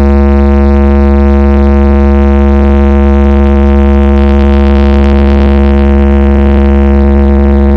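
A single electronic note held at one steady pitch over a heavy deep-bass drone, played very loud through a large carnival sound system.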